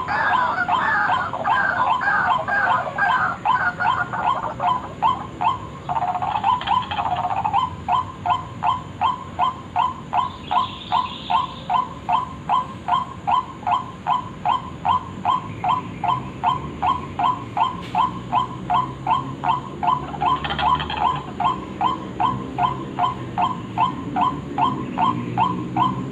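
White-breasted waterhen (ruak-ruak) calling, a short note repeated evenly about three times a second in a long monotonous run, as played for a bird-lure call.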